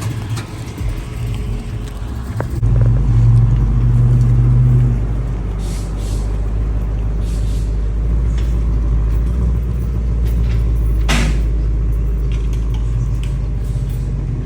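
A car engine's deep exhaust rumble grows suddenly louder about two and a half seconds in, as the engine is started or revved, then settles to a steady low idle. A brief sharp noise cuts in about eleven seconds in.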